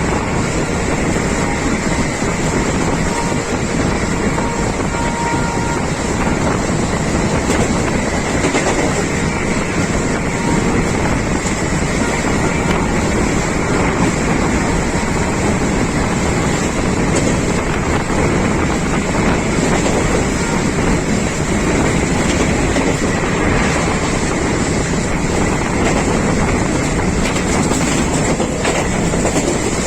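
Express passenger train running at speed, heard from on board: a steady, loud rumble of the coach on the rails.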